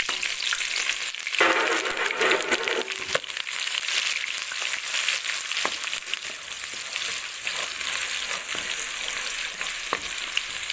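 Onion sizzling in hot oil in a cooking pot while it is stirred, with a louder burst of sizzling about a second and a half in. A few sharp clicks come from the spoon against the pot.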